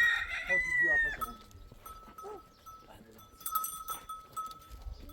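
Rooster crowing: a long, high, held crow that falls away and stops about a second in. After it come a few faint short animal calls.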